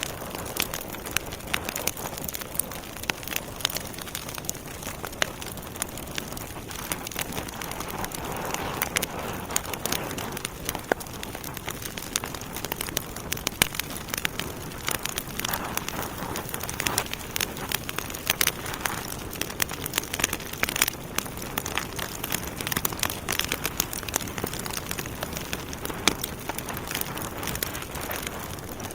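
Wood fire burning in a fireplace: logs crackling with frequent irregular pops and snaps over a steady hiss.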